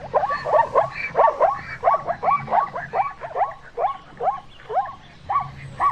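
Zebra calling: a fast, steady run of short, yelping barks, about three to four a second.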